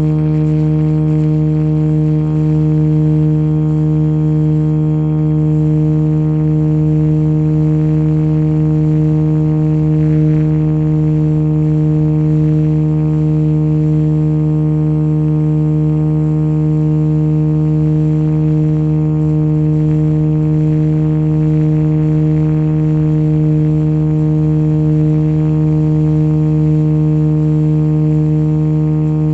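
Motion RC JetRanger model helicopter running at constant speed: a steady, unchanging buzzing hum that holds one pitch throughout.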